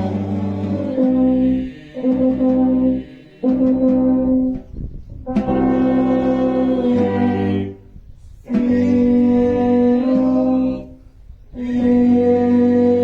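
Brass band playing a slow, solemn piece: long held chords in short phrases, each broken off by a brief pause.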